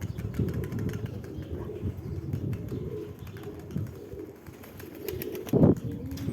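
Domestic pigeons cooing, a continuous low warbling, with one loud thump near the end.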